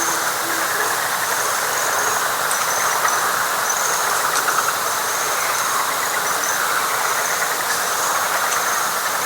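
Night chorus of frogs and insects: a dense, steady wash of calling with short high trills repeating about every half second to a second.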